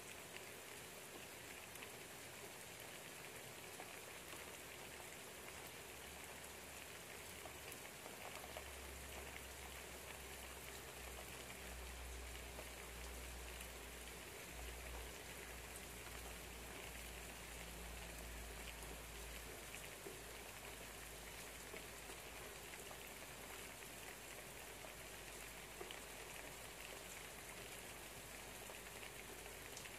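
Steady light rain pattering, with a low rumble that comes in about a third of the way through and fades past the middle.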